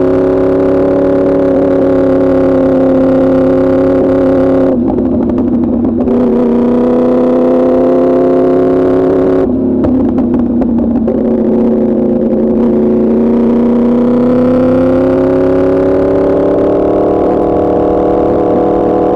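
2024 Yamaha R1's crossplane inline-four running through an Arrow Pro Racing exhaust, heard from the rider's seat while riding. The note holds steady, briefly breaks up and thins out twice (about five seconds in, and again around ten to twelve seconds), then climbs slowly in pitch.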